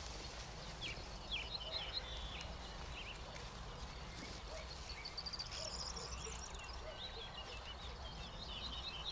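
Small birds singing and calling, with short high chirps throughout and a fast, higher trill about halfway through, over a steady low rumble.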